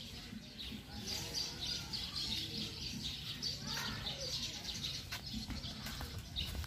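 Birds chirping all through, many quick high chirps overlapping.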